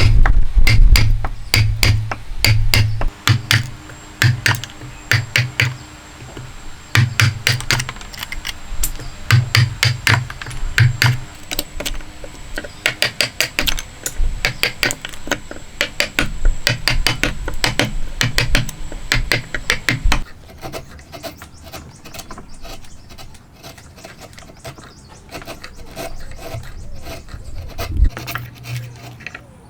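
Hand tools working wood: quick runs of repeated strokes and scrapes, pausing and resuming. About two-thirds of the way through, the strokes turn quieter and duller.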